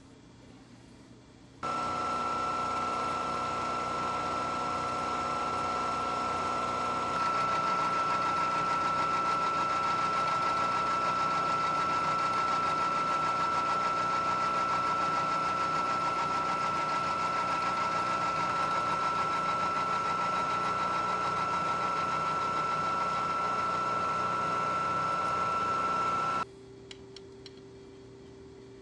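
Milling machine cutting A2 steel: a steady mechanical whine with a high tone. It starts abruptly about two seconds in, gets louder around seven seconds in, and stops suddenly near the end.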